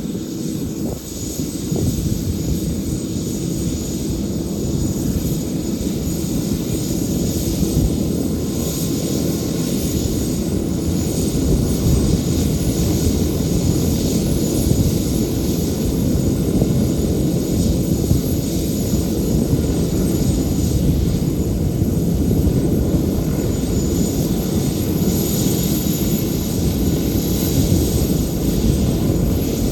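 Kawasaki BK117 C-2 helicopter's twin turboshaft engines running during start-up, a steady high turbine whine over a dense low rumble that slowly grows louder.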